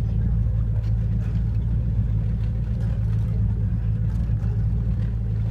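Motorboat engine running steadily under way, a constant low drone heard from aboard the boat.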